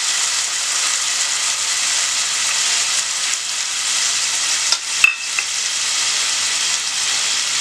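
Ground onion paste sizzling in melted butter in a non-stick pan: a steady, high frying hiss, with a couple of short clicks about five seconds in.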